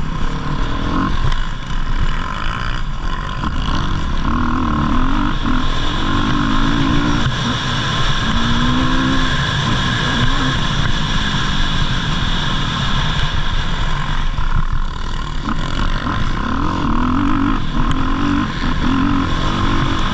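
Motocross dirt bike engines on the track, revving up and dropping off again and again as they ride.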